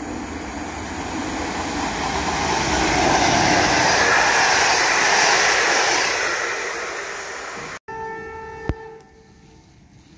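Electric passenger train passing through a station at speed: the rush of wheels and air swells to a peak about midway, then eases off. After a sudden break, a short horn note sounds and fades within about a second.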